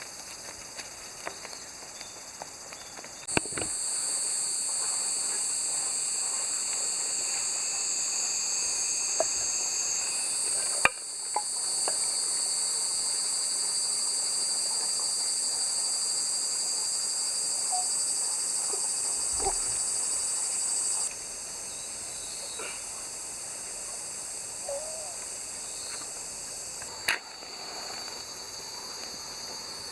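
A steady, high-pitched chorus of summer insects that grows louder about three seconds in and drops back about twenty seconds later. A few sharp knocks sound over it, the clearest near the middle and near the end.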